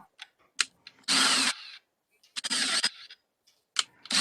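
Power drill run in two short bursts of about half a second each, driving screws into wood.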